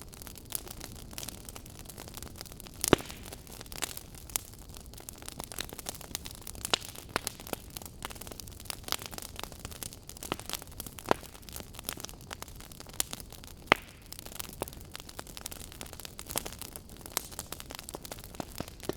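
Fire crackling: irregular sharp pops and snaps over a steady low hiss, with the loudest pop about three seconds in.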